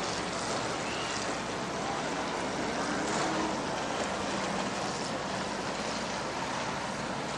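Race cars' engines running on a dirt track, heard as a steady rushing noise with a faint low hum under it.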